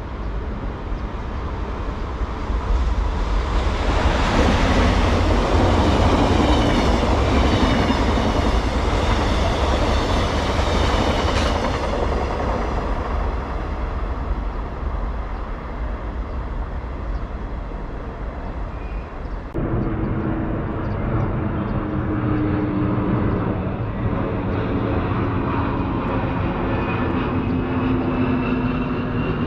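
A train passes on the railway line: its rush of wheel and air noise swells after a few seconds, peaks, then slowly fades. About two-thirds of the way in the sound changes abruptly to another train's steady running with humming tones, and a whine rises in pitch near the end.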